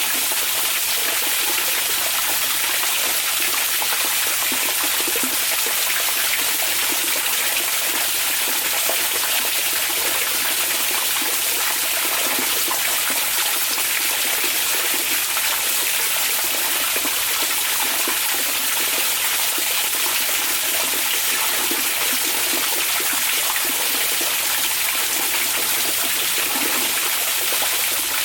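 Hot-spring water running and splashing in a steady, unchanging rush.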